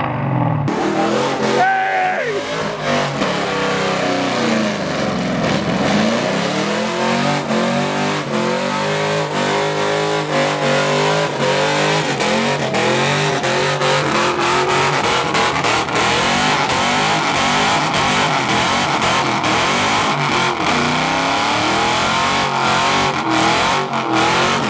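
A car's engine held at high revs during a burnout, with tyres spinning. The note dips and climbs again early on, then holds high and wavering, with sharp crackles over it.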